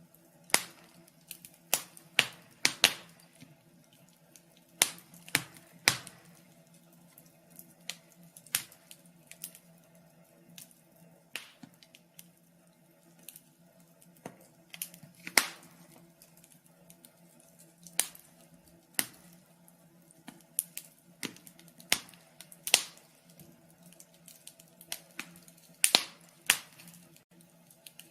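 Wood fire crackling: irregular sharp pops and snaps, a few a second at times, over a faint steady low hum.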